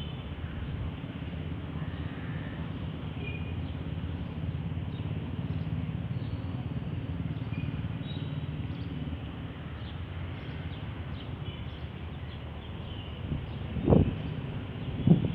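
Outdoor background ambience: a steady low rumble with faint, scattered bird chirps, and two brief thumps near the end.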